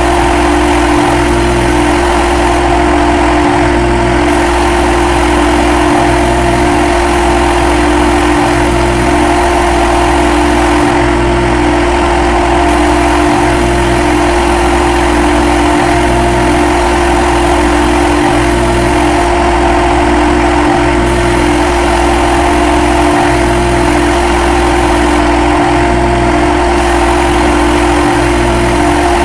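CNC lathe running with a steady machine hum; the level and pitch hold even throughout.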